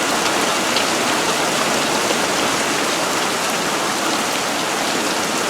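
Heavy monsoon rain falling steadily and pattering on surfaces, a loud even hiss.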